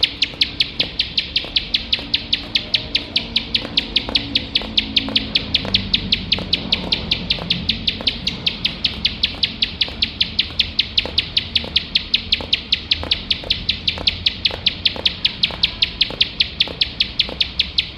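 Ciblek sawah (prenjak sawah, a paddy-field prinia) calling non-stop in a fast, even run of sharp ticking notes, about five a second. This is the rapid 'nembak' delivery that bird keepers play to train their own birds.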